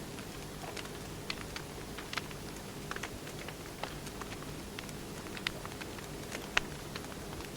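Wood fire crackling: irregular sharp pops and snaps over a steady low hiss, with one louder pop near the end.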